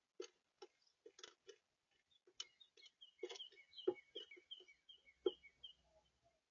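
Faint irregular clicks and taps of birds pecking seed at a feeder, with a quick series of short high chirps about halfway through.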